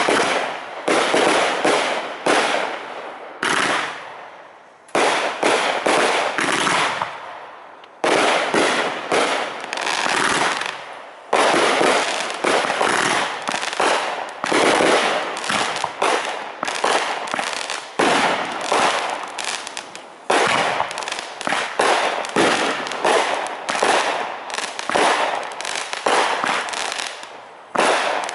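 Aerial fireworks shells bursting in rapid succession, loud booms and crackles overlapping. Brief lulls come every few seconds, each broken by a sudden new volley.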